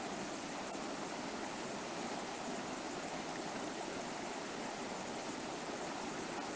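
River water flowing over rocks, a steady rushing with no change.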